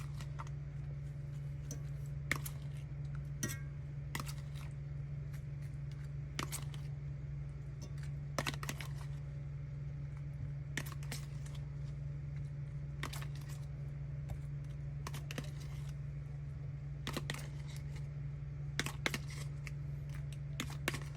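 Scattered light clicks and taps from kitchen items being handled, at irregular intervals, over a steady low hum.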